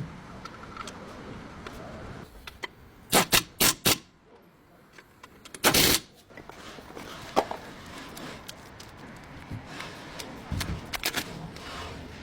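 Workshop clanks and knocks of tools and metal brake parts being handled: three sharp knocks in quick succession about three seconds in, a short harsher burst of noise just before six seconds, and lighter clicks and taps after that.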